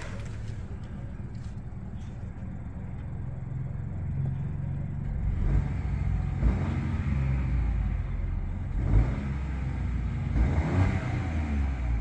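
GM 1.2-litre turbocharged three-cylinder engine of a 2024 Chevrolet Trax idling, then revved a few times in the second half, each rev rising in pitch and dropping back to idle.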